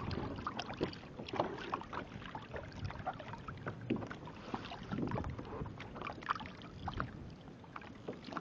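Water lapping and slapping against a kayak hull, with irregular small splashes and knocks.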